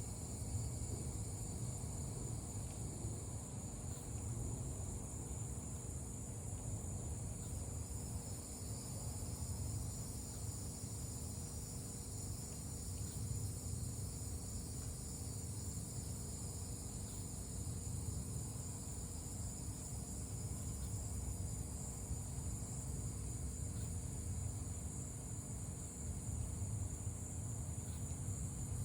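Evening chorus of crickets, a steady high-pitched trill that never breaks, over a low rumble.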